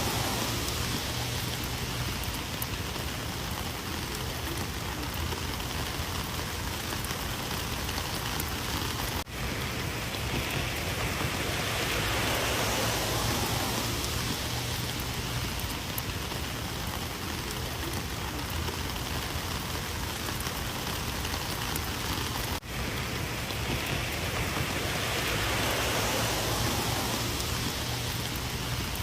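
Heavy rain falling and pattering on surfaces, a steady hiss that swells and eases slowly, with two momentary dropouts about 9 and 22 seconds in.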